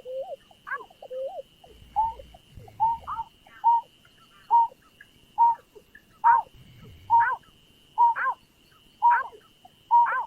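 Greater painted-snipe calling: a run of short hooting notes, about one a second, getting louder partway through. A faint steady high-pitched whine runs underneath.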